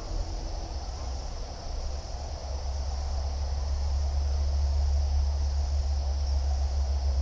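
Outdoor ambience: a steady high-pitched chorus of insects, with a deep rumble underneath that grows louder a few seconds in.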